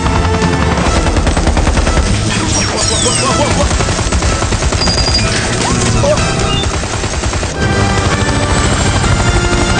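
Helicopter rotor chopping rapidly and steadily as the helicopter flies, with a film score playing under it.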